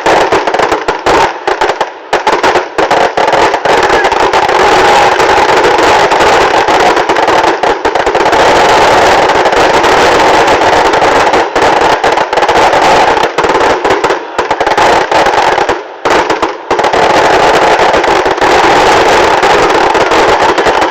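Fireworks and firecrackers going off in a dense, continuous barrage of rapid cracks and pops, loud enough to overload the phone's microphone, with a few brief lulls.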